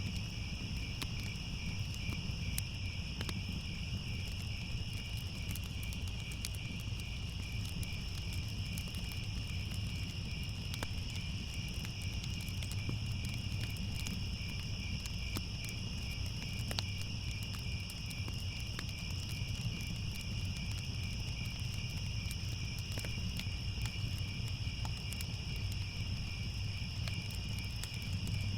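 Steady chorus of crickets trilling without a break, over a low rumble, with scattered faint crackles.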